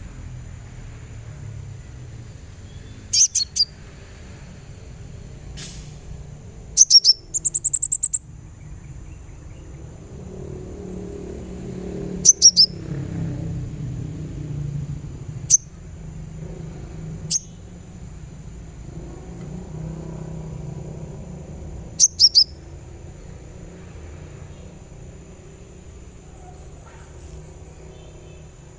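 Olive-backed sunbird (kolibri ninja) giving sharp, very high chirps that slide down in pitch, in short bursts every few seconds, with a quick run of chirps about seven seconds in. A steady high-pitched tone and a low rumble run underneath.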